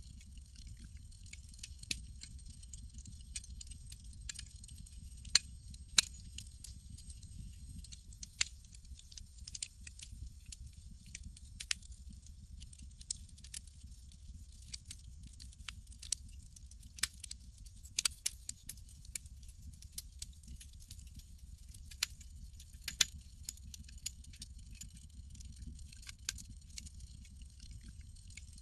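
Campfire crackling: irregular sharp pops and snaps, a few much louder than the rest, over a steady low rumble and a high hiss.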